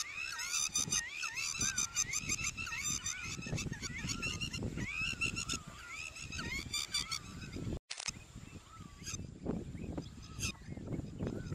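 Birds calling in quick, repeated, rising-and-falling calls, densely overlapping at first and sparser later, over a low rumble. The sound drops out for an instant about eight seconds in.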